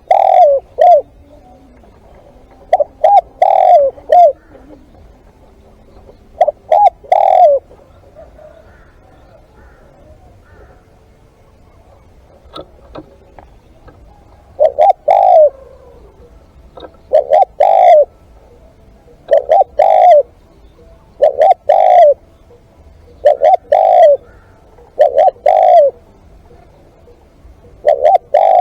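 Spotted dove cooing: short phrases of two or three hoarse coos, repeated. The phrases come at first with pauses of a few seconds, then stop for about six seconds, then return regularly about every two seconds. The calls are those of a caged decoy dove calling to draw wild doves.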